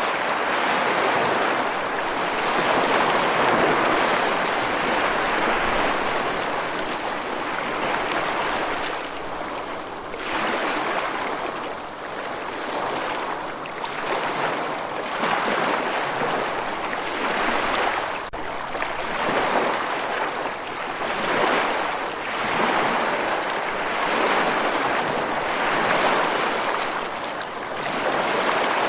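Rushing water, a steady hiss that swells and eases every second or two.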